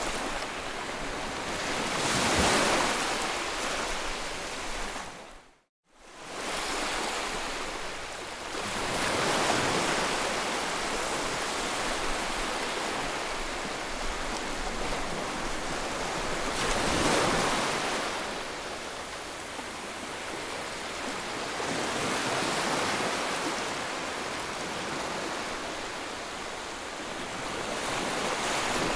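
Ocean surf: a steady wash of waves that swells and ebbs every several seconds. About six seconds in the sound cuts out for a moment and fades back in.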